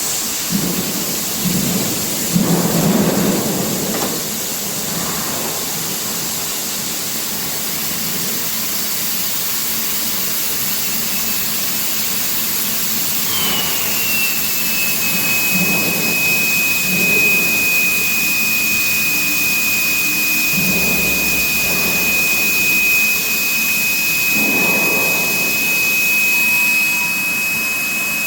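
Steady roaring noise of an induction hardening and quenching line for steel rail. A high whine starts about halfway through, falls slightly in pitch and then holds steady.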